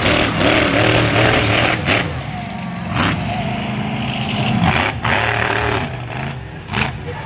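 Heavy engine idling with a steady low drone under loud, noisy surroundings, with a few sharp cracks about two, three and five seconds in.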